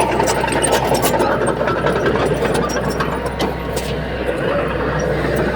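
Heavy diesel engine of earthmoving machinery running steadily, with a few sharp clicks and knocks.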